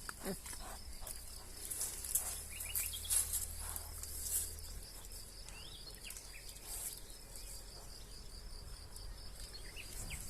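Faint rural ambience: insects trilling steadily in a high, pulsing drone, with a few short bird chirps and some brief high hissy rustles.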